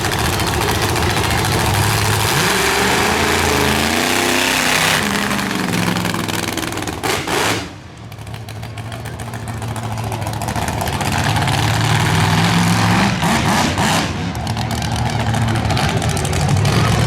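Motorsport vehicle engines running and revving, the pitch rising and falling about three to five seconds in. The sound drops away sharply just before eight seconds, then builds steadily again.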